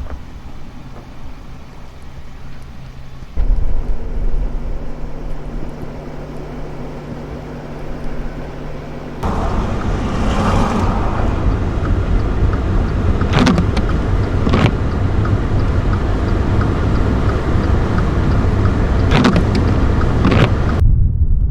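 A car driving, with a steady low rumble of engine and tyres. The sound changes abruptly twice in the first half, and a few sharp knocks come in the second half.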